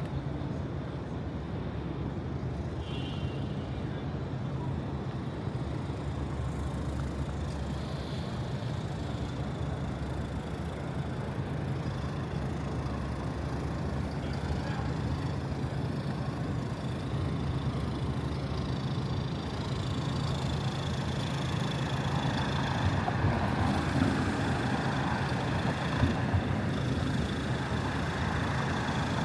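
City street traffic ambience: a steady low rumble and hum of engines and passing vehicles, growing a little louder in the last ten seconds or so.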